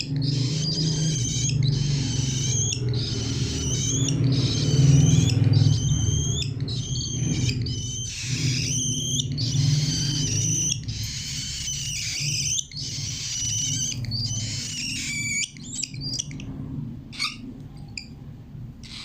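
Cockatiel chirping and calling again and again in short rising and falling calls, over a steady low hum that fades near the end.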